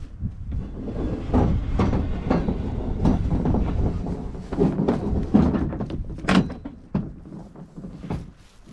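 Nova Craft canoe hull scraping, rumbling and knocking against a pickup truck as two people slide it off the truck, with a sharp knock about six seconds in.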